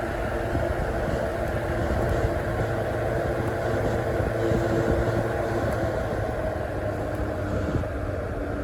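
Duracraft DT-50 10-inch table fan running, a steady motor hum under the whoosh of the blades. The fan is way too noisy for the little air it moves.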